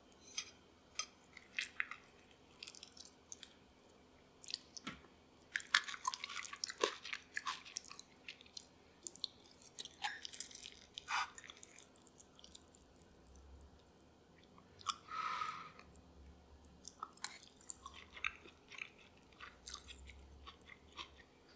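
Close-miked food sounds: irregular crisp crackles and clicks, scattered through, with a short rustle about fifteen seconds in.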